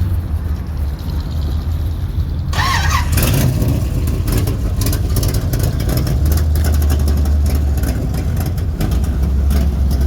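Car engine running with a steady low rumble. About two and a half seconds in, a burst of louder noise with a wavering whine sets in, and the rumble deepens and grows louder from about six seconds on.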